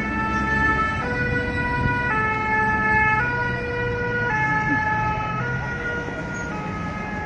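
Two-tone emergency vehicle siren, alternating between a high and a low note about once a second, over the low rumble of street traffic.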